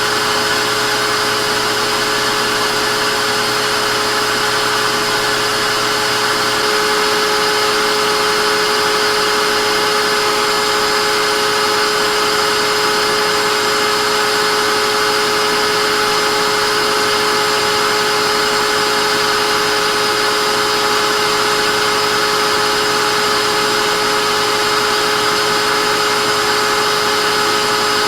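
Vacuum cleaner motor running steadily: a constant whine with several held tones over a rush of air. About six and a half seconds in, a low hum drops out and the sound gets slightly louder.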